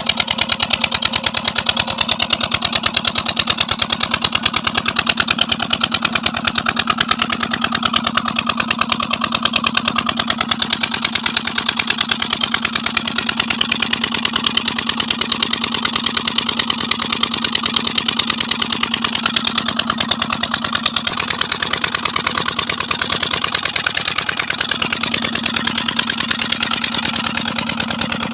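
8 hp double-flywheel diesel engine driving a borewell water pump, running steadily with a fast, even beat of firing pulses.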